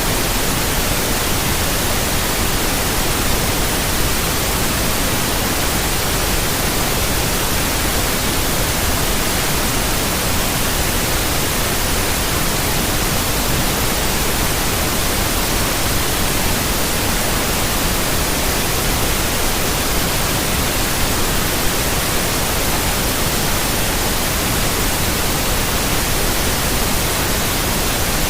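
Steady white noise: an even, unchanging hiss spread across all pitches, with no variation.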